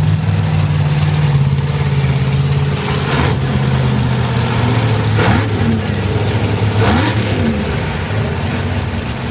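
Mud truck engine idling steadily, blipped twice in quick revs about five and seven seconds in.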